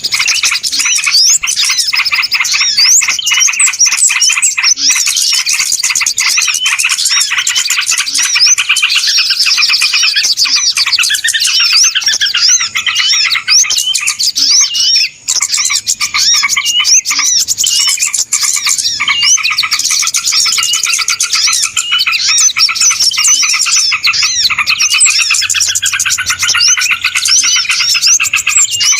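A dense, loud chorus of many small birds chirping and twittering over one another without pause, the busy 'ribut' flock sound of a bird-lure (pikat) recording.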